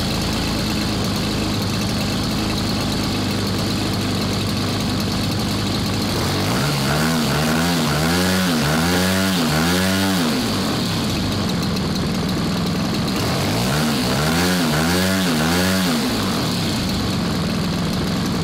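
MVVS-80 model aircraft engine idling steadily, then blipped several times in quick succession, its pitch rising and falling with each blip, in two runs about halfway through and again a few seconds later before settling back to idle.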